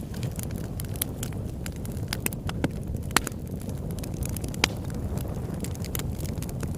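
Campfire burning, its wood crackling and popping irregularly over a steady low rumble, with a couple of sharper pops about three and four and a half seconds in.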